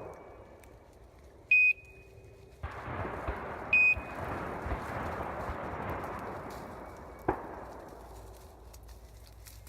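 Two loud, short, high electronic beeps about two seconds apart from a hunting dog's beeper collar. From about a quarter of the way in there is a steady rustling noise, with a single sharp click later on.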